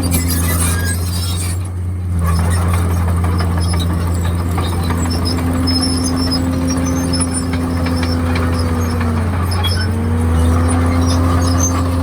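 Komatsu D51PX bulldozer's diesel engine running steadily with a strong low hum. A little past three-quarters of the way through, its pitch dips briefly and comes back. Scattered high squeaks sound over it.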